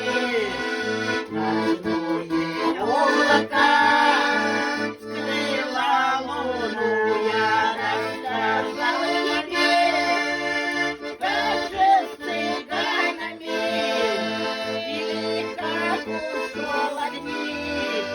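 Accordion playing an instrumental passage of a Russian song: a melody over sustained chords, with short bass notes repeating underneath.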